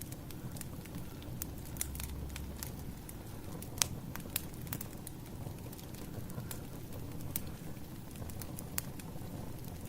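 Wood fire crackling: irregular sharp pops and snaps over a low, steady rumble of burning logs, with the loudest pop about four seconds in.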